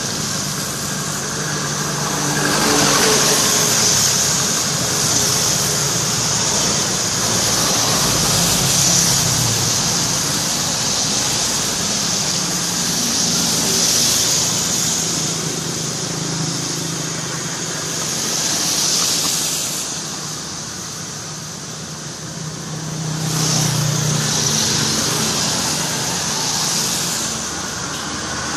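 Concrete mixer truck's engine running steadily, with a hiss that swells and fades every few seconds.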